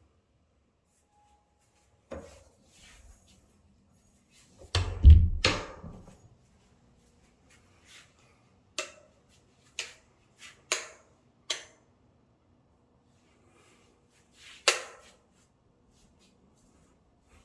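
A series of about seven sharp knocks or hits, irregularly spaced, with the loudest and deepest one about five seconds in and a last loud one near the end, over a faint steady low tone.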